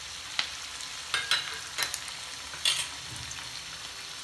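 Onion, tomato and cashews sizzling steadily in butter and oil in a non-stick kadhai. Several sharp taps in the first three seconds come from a steel spoon knocking spice powders into the pan.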